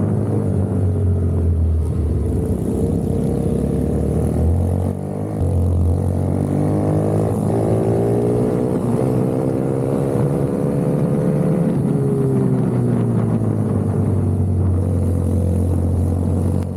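Racing minibike's small engine heard onboard, held at high revs, its pitch climbing and falling as the throttle is worked, with a brief drop in level about five seconds in.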